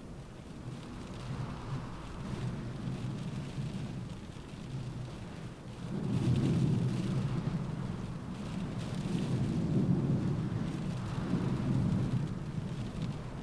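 Rain falling on a window in a windstorm, with a low rumble of wind gusts that swells loudly about six seconds in and keeps surging.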